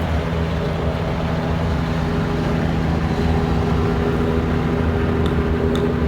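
Police helicopter flying low overhead, a steady drone of engine and rotor.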